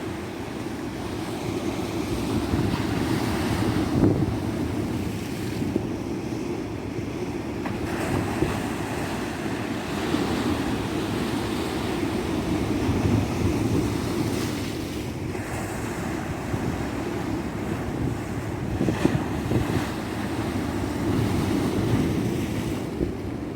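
Tropical surf breaking and washing up a beach, a continuous rushing that swells and eases every few seconds, with wind buffeting the microphone.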